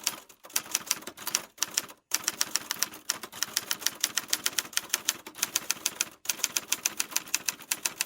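Rapid, even clicking, about eight sharp clicks a second, broken by a few short gaps.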